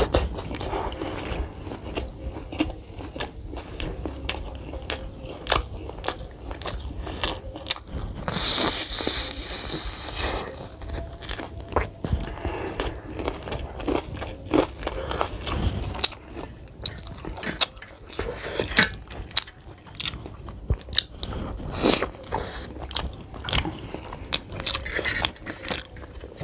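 A person chewing and biting into a fried bread pakora dipped in green chutney, close to the microphone: wet chewing with many irregular sharp clicks.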